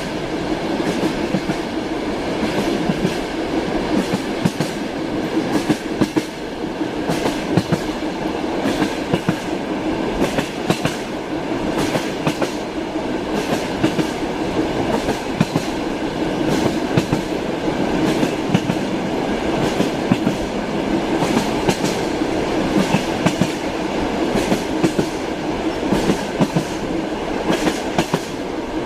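Train running along the line: a steady rumble with the wheels clacking sharply over rail joints again and again.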